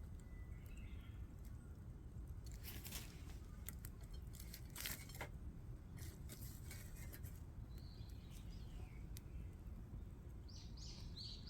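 Faint bird chirps over a low steady outdoor background, with scattered short clicks and crackles in the middle. Busier chirping starts near the end.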